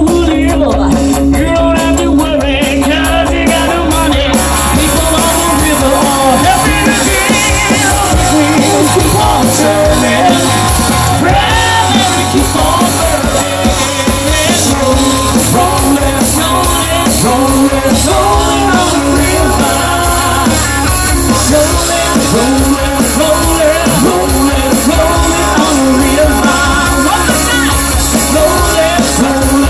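Live rock band playing a song with a lead singer over a steady bass line.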